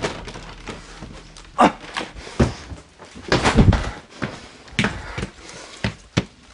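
A scattered series of knocks and thumps, some sharp and some dull, with a denser cluster around the middle, sounding inside a small room.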